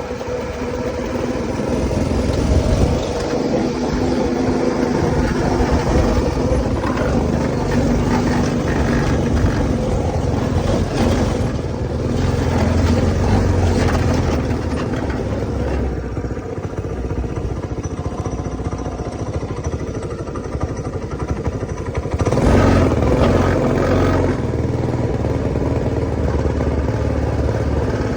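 Go-kart's small engine, fitted with a new 30 mm carburetor, running under load as the kart is driven. Its speed rises and falls several times, with the loudest surge about 22 seconds in.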